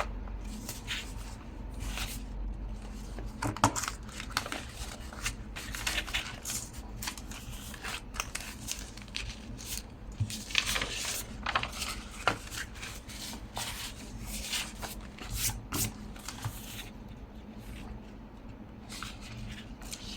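Paper rustling and sliding, with irregular small taps and clicks of craft materials being handled on a table.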